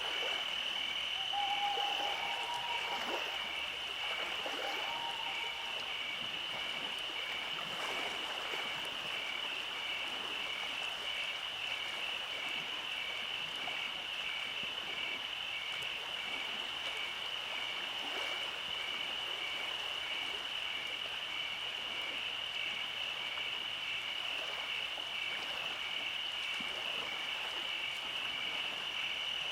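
Night-time animal chorus: a steady high-pitched trilling with an evenly pulsing note just beneath it, running without a break. A few short, clear calls sound in the first few seconds.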